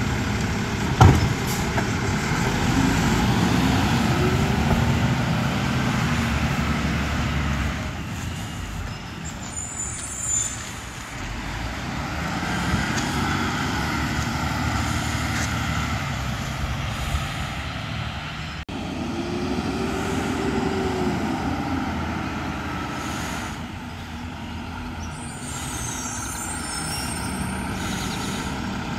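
Mack LR garbage truck running, its engine revving up and back down twice. There is a sharp clank about a second in and two brief high squeals, like air brakes.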